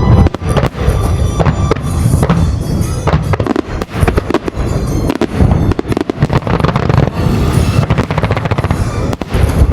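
Fireworks display: aerial shells bursting in quick succession, booms and crackling one after another, with music playing underneath.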